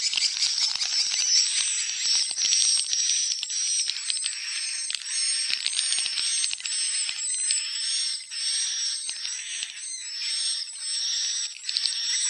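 Swiftlets twittering: a steady run of high chirps, about two a second, over a dense chatter of fine clicks.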